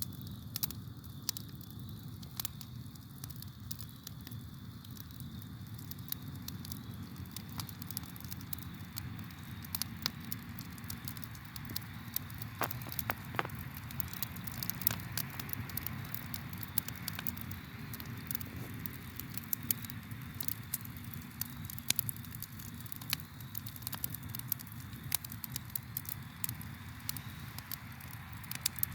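Campfire crackling, with frequent irregular sharp pops and snaps over a steady low rumble of burning.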